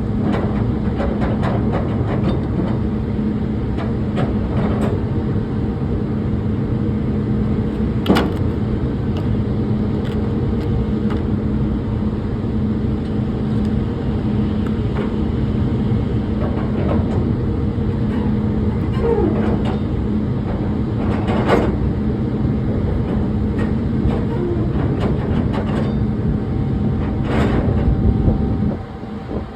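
An engine running steadily with a low hum, with scattered knocks and clanks throughout; the hum drops off sharply about a second before the end.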